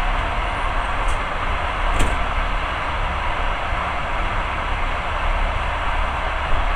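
Passenger train running steadily along the track: a continuous rumble and rush of the moving carriage, with two short clicks about one and two seconds in.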